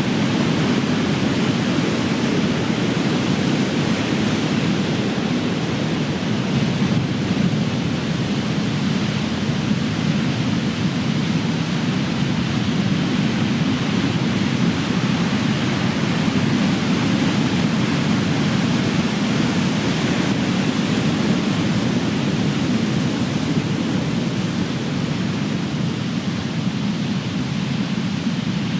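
Big ocean waves breaking: a steady, even roar of surf with no single crash standing out.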